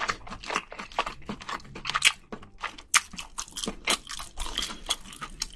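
Close-miked chewing of soft braised scallop: wet smacking and clicking mouth sounds, several a second and uneven.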